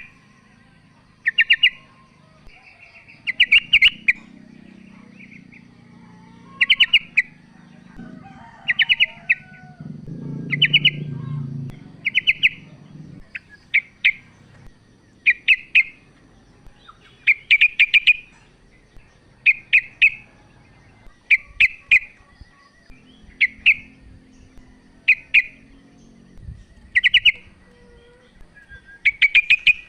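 Female yellow-vented bulbul calling to a male: short bursts of quick bright chattering notes, repeated about every one and a half to two seconds.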